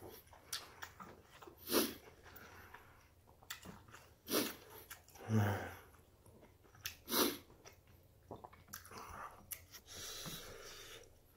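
Close-up mouth sounds of a person chewing a full mouthful of yukgaejang and rice, with about five short, loud breaths through the nose spread through it and a longer exhale near the end.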